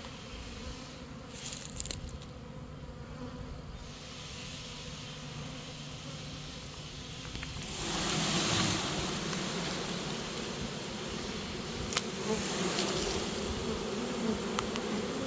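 A swarm of honey bees buzzing, a steady many-winged hum that swells and grows louder about halfway through, with a few faint clicks.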